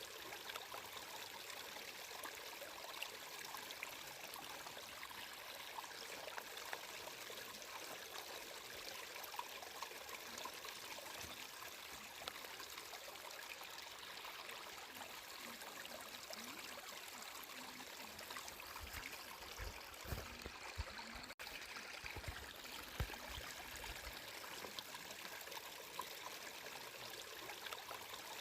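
Flowing water, a stream trickling and babbling steadily, with a few soft low thuds about two-thirds of the way through.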